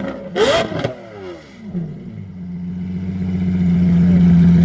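Car engine revved hard with a sharp crack about half a second in, the revs falling away over the next second. Then a steady engine note builds, growing louder as the car comes closer.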